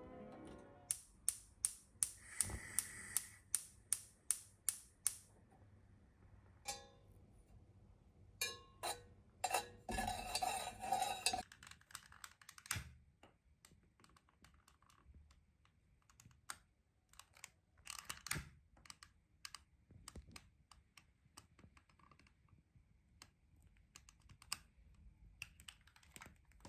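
A run of sharp, evenly spaced taps, about three a second, then scattered clicks and knocks with a brief rattling burst near the middle.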